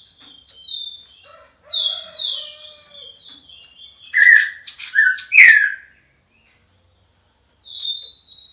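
Songbirds singing at dawn: quick chirps and short whistles sweeping downward in pitch, with a lower warbling call for a moment. The song stops for a second or two and starts again near the end.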